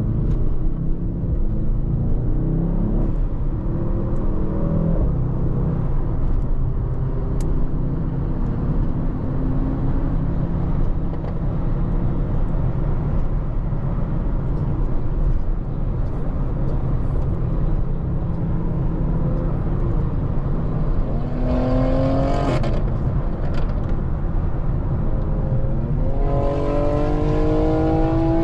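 Mercedes-AMG GT63 S twin-turbo V8 cruising with a steady engine and road rumble. It accelerates briefly about two-thirds in and again, longer and harder, near the end, the engine note rising in pitch each time.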